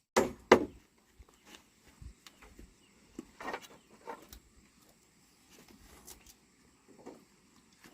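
Two sharp knocks close together near the start, then scattered softer knocks and rustling.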